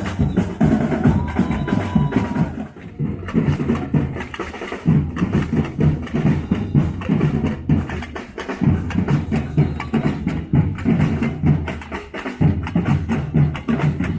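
Live drums played in a fast, dense rhythm, broken by a few short pauses.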